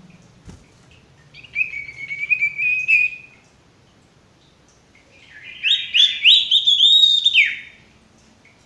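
Sirtu songbird calling in two phrases: a chattering trill about a second in, then a louder run of quick rising notes past the halfway point that ends in a sweep downward.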